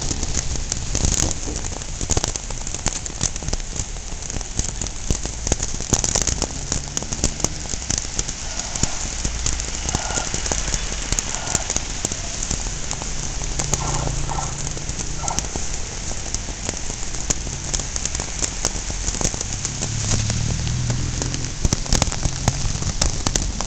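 Heavy pouring rain, a dense steady hiss full of close drops ticking and spattering. A faint low hum swells twice in the second half.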